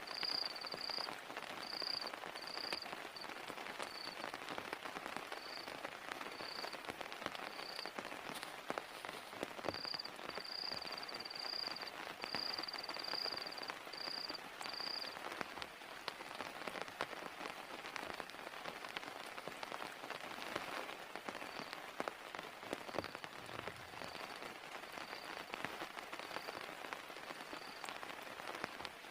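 Steady rain, with many individual drops heard as sharp ticks. A short high chirp repeats about once or twice a second through the first half, then returns fainter near the end.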